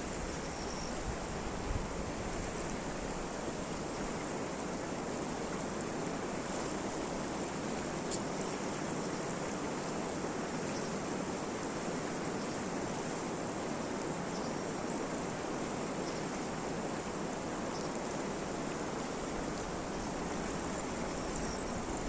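Steady hiss of rain falling, unbroken.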